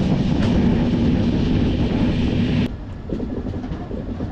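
Passenger train running, heard at the open doorway of an LHB coach: a steady rumble with a rush of wind. About two-thirds of the way in it cuts abruptly to a quieter rail rumble with faint clicks.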